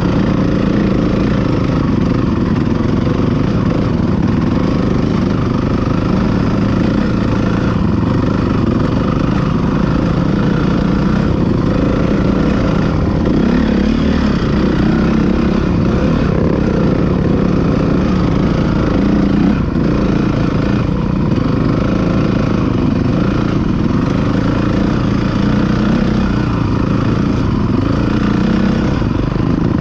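Motocross motorcycle engines running continuously, their pitch rising and falling as they rev.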